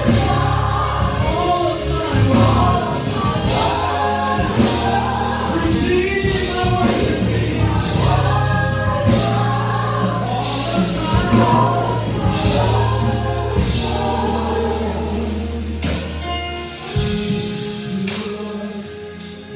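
Gospel choir singing a praise song over a live band with a steady bass line and drums.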